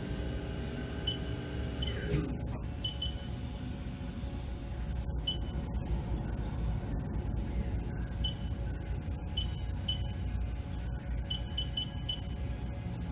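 Haas VF-1 CNC machining center with its spindle running at 4,000 RPM as a steady multi-tone whine, which dies away about two seconds in. After that a low machine hum carries on, with a series of short, irregular beeps from the control keypad as a new spindle speed is keyed in.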